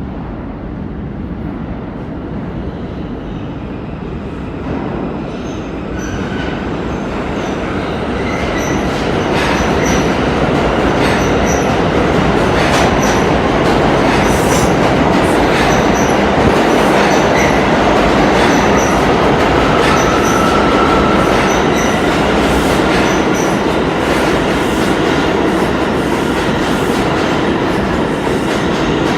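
R179 subway train running through the station, growing louder over the first ten seconds and then holding steady. Its wheels click regularly over the rail joints, and a thin high wheel squeal comes in about twenty seconds in.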